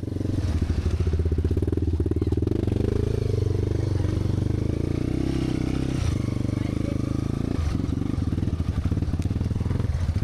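Motorcycle engine running on the move, starting suddenly. Its pitch shifts a couple of times, about six and eight seconds in.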